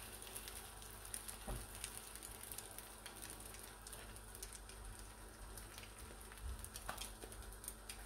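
Egg-dipped bread frying in shallow oil in a non-stick pan: a faint, steady sizzle full of small crackles.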